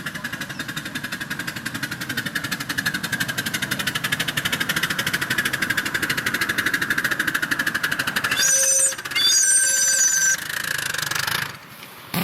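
Miniature railway locomotive running with a rapid, regular beat that grows louder as it approaches. About eight and a half seconds in, it gives two short high-pitched whistle toots, the second one longer.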